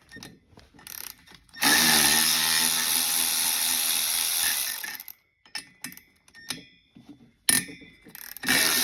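A handheld power tool with a socket runs cylinder head bolts out of a twin-cylinder two-stroke snowmobile engine. A motor whine spins up about one and a half seconds in, runs for about three seconds and stops. After a few small clinks it starts again near the end.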